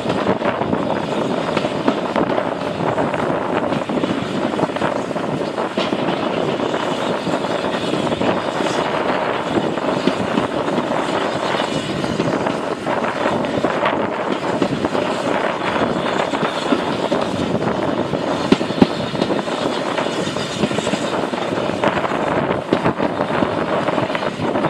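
Steam-hauled passenger train running along the line, heard from an open carriage window: a steady rush of wheels on the rails and passing air, with a few sharp clicks.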